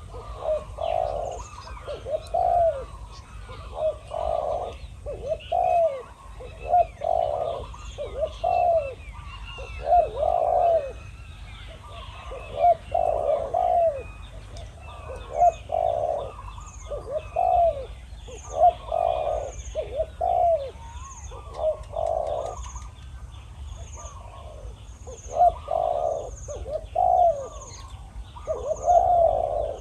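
Spotted doves cooing over and over in short repeated phrases, as a decoy dove and a wild dove call back and forth; small birds chirp faintly behind them.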